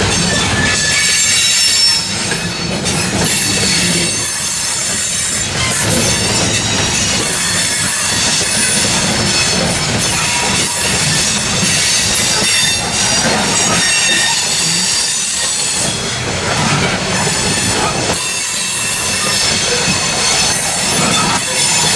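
Loaded coal hopper cars of a freight train rolling past, their steel wheels clacking over the rail joints over a continuous low rumble, with high-pitched wheel squeal.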